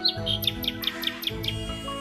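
Background music with held notes, over a rapid series of short, high bird chirps, about six a second, that stops about a second and a half in.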